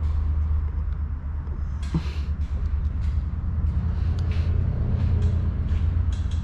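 Steady low hum in the workshop, with a few light clicks and taps of small engine parts and tools being handled.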